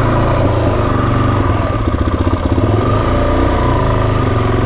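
Motorcycle engine running loud under way, its exhaust a fast, even pulsing, with the revs rising and falling a little as it rides.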